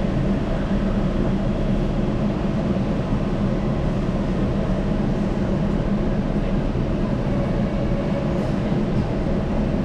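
Rubber-tyred Yurikamome automated guideway train, heard from inside the front cab: a steady hum and rumble with no distinct knocks or changes.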